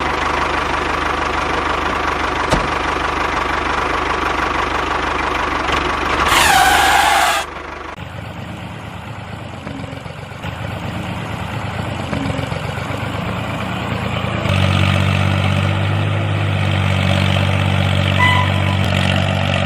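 Small electric motors of a homemade miniature tractor and water-pump model running with a steady hum, changing in pitch and strength between cuts. A loud falling whoosh comes about six seconds in.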